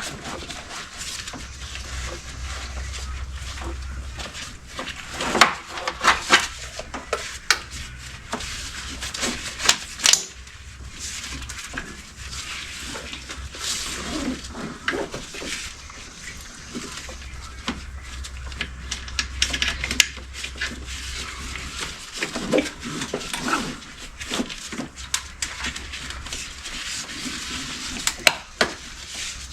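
Metal tools and parts clinking and clattering in irregular bursts during engine assembly, over a low hum that comes and goes.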